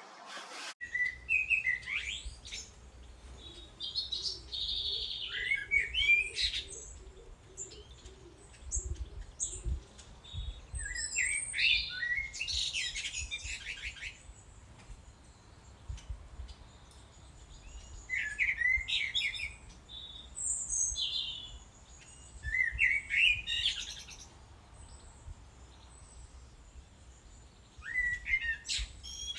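A songbird singing in short, varied, warbling phrases a second or two long, repeated every few seconds with pauses between, over a faint low rumble.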